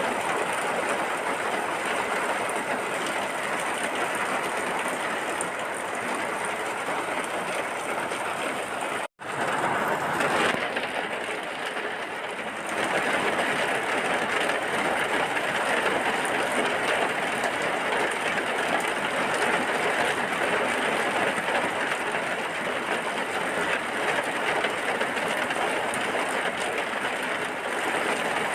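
Steady heavy rain, an even hiss of falling drops. About nine seconds in it cuts out for an instant and resumes.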